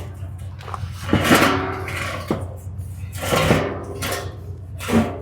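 A few loud knocks and clattering bangs, some with a brief ring, over a steady low hum.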